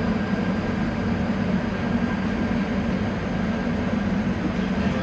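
KVB B80D light-rail car running at a steady speed, its old traction motors driven by a newly fitted power converter. A steady hum with faint constant high whine tones sits over the rumble of rolling wheels, with no change in pitch.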